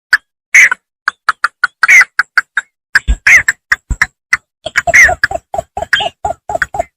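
Bittern calling in the paddy field: a fast run of short, clipped call notes, about five a second, some higher with a falling sweep and some lower, coming in clusters.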